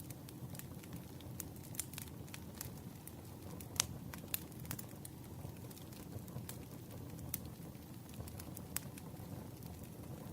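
Campfire burning: a steady low rumble with scattered sharp crackles and pops, one louder pop a little under halfway through.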